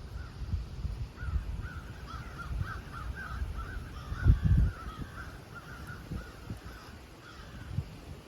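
Birds calling: a rapid run of short, repeated notes, over an uneven low rumble that swells loudly about four seconds in.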